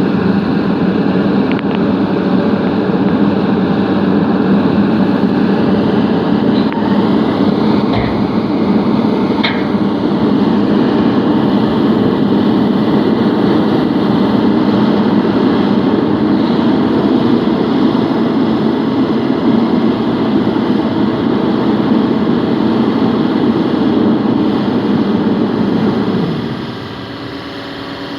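Heavy dump truck's diesel engine running hard at high revs, as when driving the hydraulic hoist to tip a load of sand, then dropping back to a steady idle about two seconds before the end.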